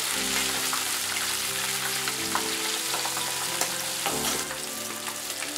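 Flour-dredged squid pieces deep-frying in hot oil at about 180 °C: a steady fizzing sizzle of bubbling oil, with a spoon stirring the pieces at the start. Soft background music with held notes plays underneath.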